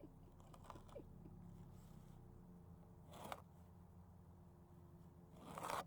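Two short scraping cuts of a knife through material, a faint one about three seconds in and a louder one near the end, over a low steady hum.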